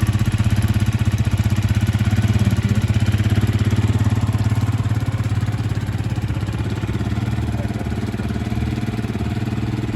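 Vento Rocketman 250 motorcycle engine idling steadily with an even pulsing beat, running after its first cold start; it eases a little in level about halfway through.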